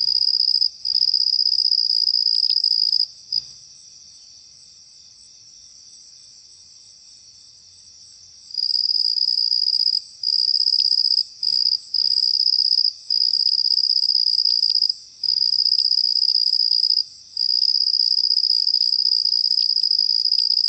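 A cricket trilling in long, steady high-pitched trills of one to several seconds, broken by short gaps. It falls silent for about five seconds a few seconds in, then resumes. A few faint ticks come through underneath.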